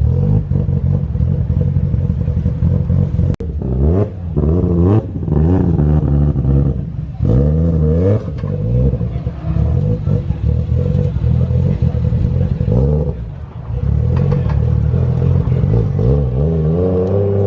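Car engine revved again and again, its pitch climbing and dropping back with each blip of the throttle.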